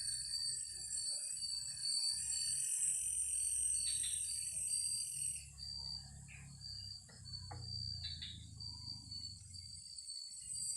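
Forest insects at night, crickets chirping in a steady pulsing trill, with a higher insect drone that cuts off suddenly about halfway through. A low rumble runs underneath.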